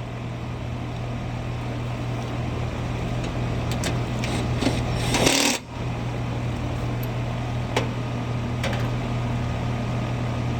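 Central air-conditioner outdoor unit running: a steady low hum with fan noise. A few light clicks, and a brief louder rustling scrape about five seconds in.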